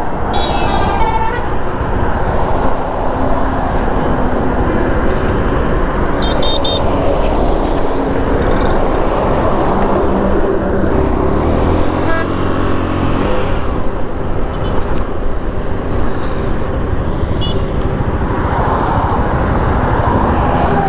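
Motorcycle riding through road traffic: steady engine and wind noise, with vehicle horns beeping briefly near the start and again about six seconds in.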